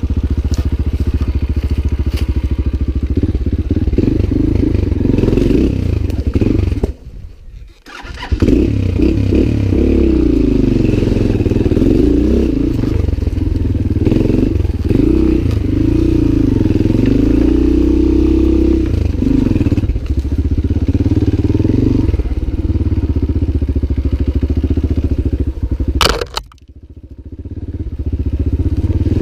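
Lifan L200GY-5 enduro motorcycle's engine being ridden, its revs rising and falling with the throttle. The sound drops away briefly about seven seconds in and again near the end.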